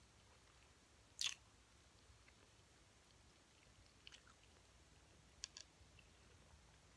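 Faint chewing with the mouth closed, a few soft mouth clicks, and one short, louder noise about a second in.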